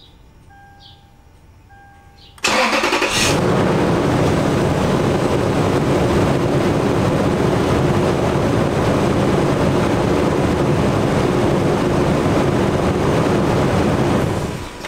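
Lexus GX470's V8 engine being started: a short burst of starter cranking about two seconds in, catching within a second, then running steadily at idle until it falls away near the end. The engine cranks and starts on a good battery, and the alternator is charging once it runs.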